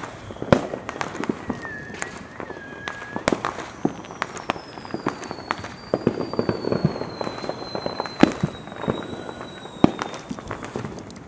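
Fireworks going off: an irregular scatter of sharp bangs and crackling pops. Through the middle a thin high whistle slowly falls in pitch.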